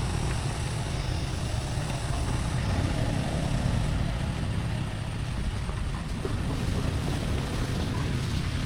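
Tractor engine running steadily, a low, rapidly pulsing sound with no clear change in speed.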